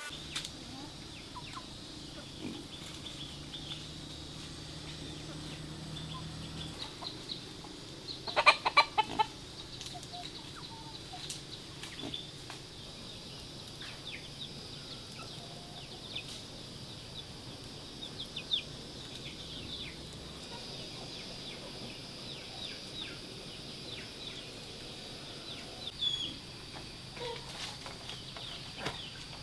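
Chickens clucking, with many short high chirps throughout and a brief burst of loud squawking about eight seconds in.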